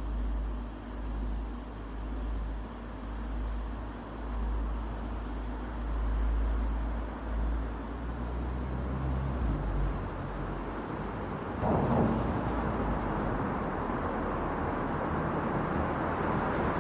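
Road and wind noise at a roof-mounted camera on a moving car: a pulsing low buffeting of wind on the microphone for the first half, then a steadier, brighter rush of tyres and traffic, with a brief louder swell about twelve seconds in.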